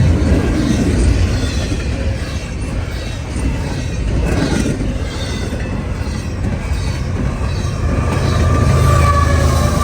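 Freight train cars rolling past, a steady rumble of steel wheels on rail with faint squealing tones from the wheels. The low rumble grows stronger near the end.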